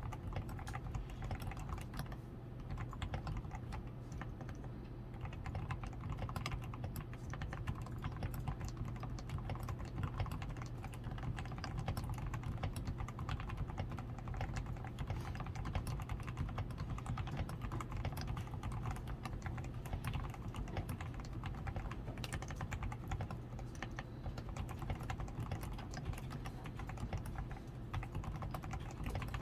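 Continuous typing on a DAREU A87 Pro 87-key mechanical keyboard, fully lubed with Krytox 105 and tape-modded, with foam-padded switches, lubed stabilizers and XDA keycaps: a steady, dense run of keystrokes without pause.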